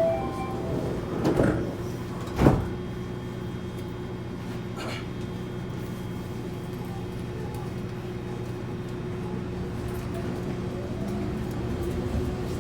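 Tokyo Monorail 1000 series car doors sliding shut: two knocks about a second and a half and two and a half seconds in, the second louder, just after the door chime's last note. The standing car's equipment then hums steadily, and a faint rising tone begins near the end.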